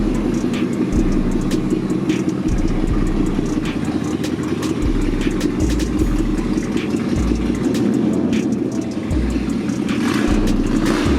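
Lifted pickup truck engine running steadily at idle.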